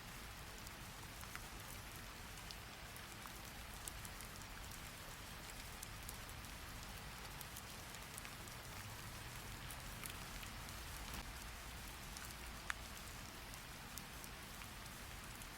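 Steady rain falling on a surface, faint, with scattered small ticks of drops. One sharper tick comes near the end.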